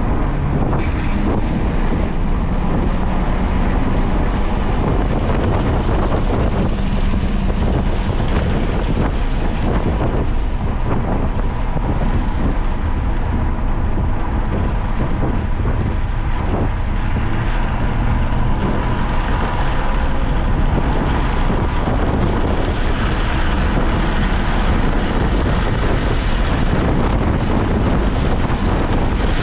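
Car driven at speed on a track lapping session, its engine and road noise running steadily under heavy wind noise on the microphone.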